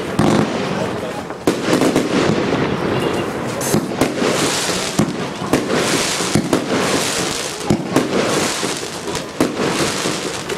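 Compound firework cake (Evolution Spectacle Show 120) firing shot after shot: sharp launch and burst reports every fraction of a second, with a hiss of sparkling gold stars between them.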